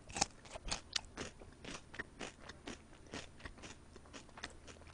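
Close-miked chewing of crispy soy-sauce fried chicken: a steady run of crunches, about four a second.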